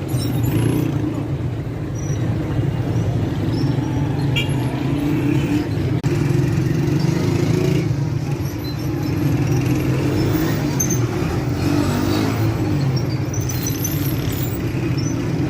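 Steady low rumble of a running motor vehicle, with a few faint high chirps over it and a brief dropout about six seconds in.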